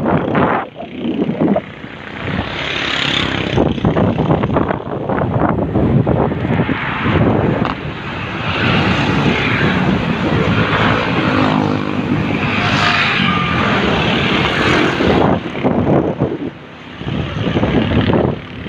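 Wind buffeting the microphone on a fast downhill ride, mixed with a vehicle engine running, its drone clearest in the middle. The loudness dips briefly about a second in and again near the end.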